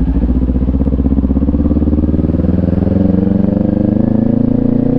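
Motorcycle engine running as the bike rides along, its note climbing slowly under gentle acceleration.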